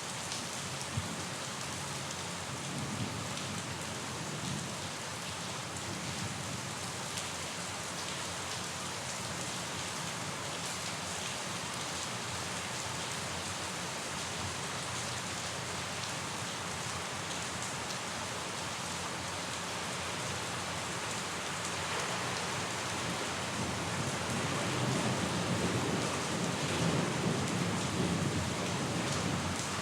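Steady rain falling, an even hiss of many drops. A low rumble of thunder builds over the last several seconds.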